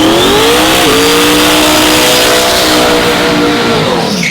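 A race truck's engine at full throttle down the drag strip, its pitch climbing, dipping sharply at a gear change about a second in, then holding high before falling away near the end.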